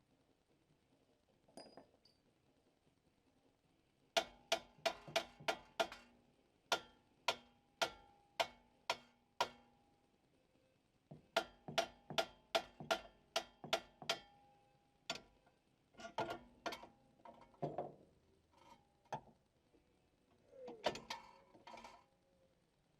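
Hammer blows on steel on a Honda Fit's front steering knuckle assembly as it is driven loose for removal. Each sharp strike rings briefly. There are two quick runs of about a dozen blows, roughly two a second, then scattered strikes.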